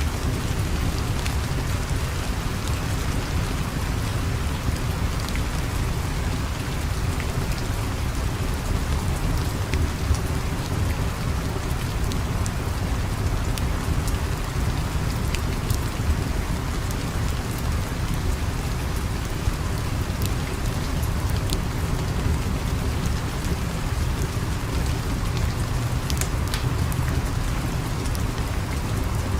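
Steady rain with a low rumble underneath and scattered small, sharp crackles.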